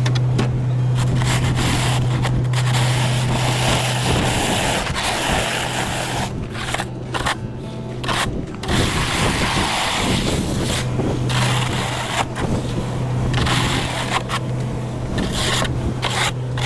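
Plow truck working a lot: a loud, rough scraping noise, typical of a plow blade scraping the pavement, over a steady low hum that drops away from about four to ten seconds in and then returns.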